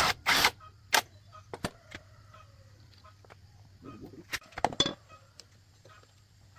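Sharp clicks and knocks of tools and parts being handled during motorcycle repair work: several in the first second, then a louder cluster about four and a half seconds in, over a faint low hum.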